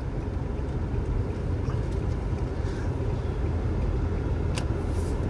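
Steady low rumble of a car's engine and tyres heard from inside the cabin while driving gently, with a single sharp click a little after four and a half seconds.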